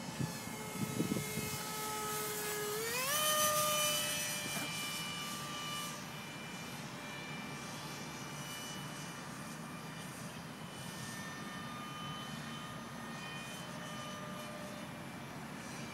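Electric ducted-fan motor of an RC F-35 model jet, a high whine that rises in pitch about three seconds in as the throttle goes up, then fades and holds a steady pitch.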